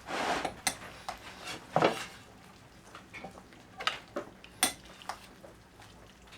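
Cooking pot and metal utensils clinking and scraping as food is stirred and served, with a scrape at the start and several separate sharp clinks spread a second or so apart.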